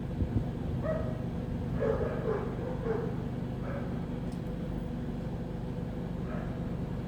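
A gull giving a series of short, bark-like calls, bunched in the first four seconds with one fainter call near the end, over a steady low hum.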